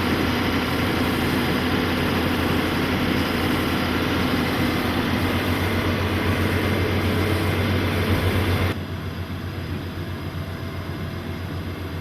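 A motor running steadily, loud and close, with a low steady hum; it drops abruptly to a lower level about nine seconds in.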